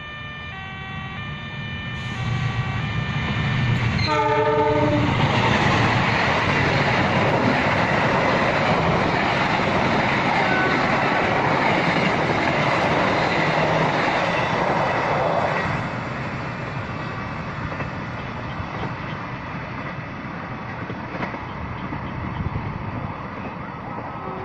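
A passenger train passes close by. A repeating electronic alarm of a few stepped tones sounds at the start. The train's horn gives one short blast about four seconds in, then the loud rolling noise of the carriages lasts about ten seconds and drops to a lower rumble.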